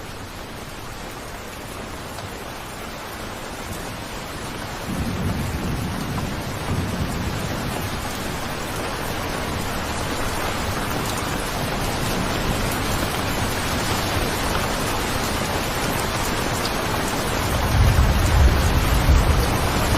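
Steady rain falling, slowly growing heavier, with low rolling thunder coming in about five seconds in and a louder rumble of thunder near the end.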